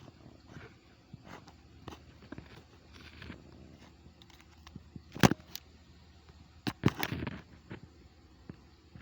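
Faint scuffling and clicks, then a loud sharp knock about five seconds in and a quick cluster of loud knocks and thumps around seven seconds.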